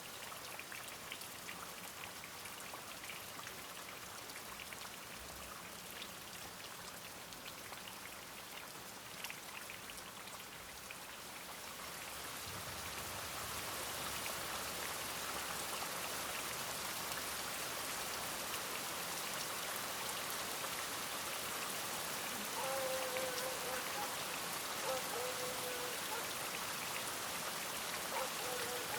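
Steady rain pattering on surfaces, getting heavier partway through. Near the end, a few short faint calls sound over the rain.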